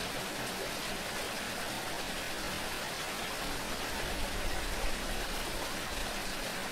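Water running steadily, an even hiss with no bowl or tingsha tone sounding.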